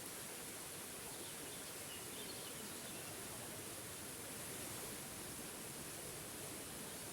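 Small forest waterfall rushing steadily, with a few faint bird chirps about a second or two in.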